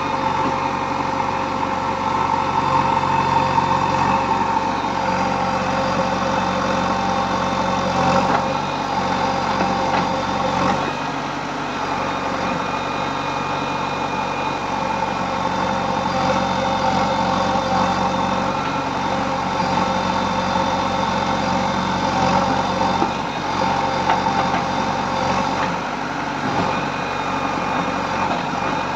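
Diesel engine of earthmoving machinery running steadily, with a few faint knocks.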